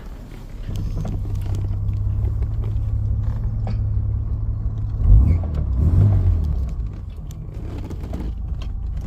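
1959 Jaguar XK150's straight-six engine on a cold start: it catches about a second in and runs with a steady low rumble, swelling twice around five and six seconds in before settling back to a lower, even idle.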